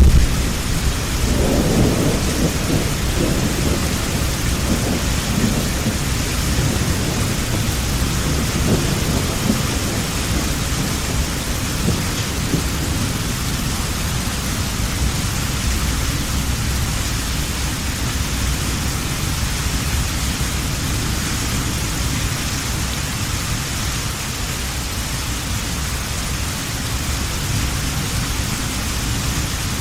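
Heavy thunderstorm: steady hard rain, with a low rumble of thunder rolling through the first several seconds and fading away.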